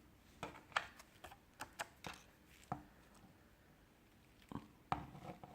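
Plastic pry tools clicking and tapping against a phone's back cover as it is worked open: a run of sharp, irregular clicks over the first three seconds, a pause, then a few more near the end.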